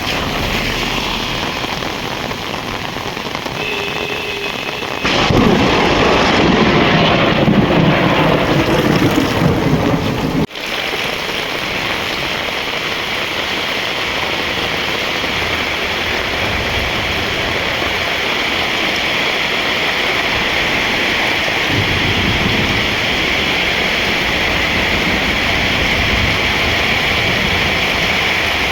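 Steady heavy rain, with a loud rumble of thunder about five seconds in that breaks off suddenly about ten seconds in; the rain keeps on after it.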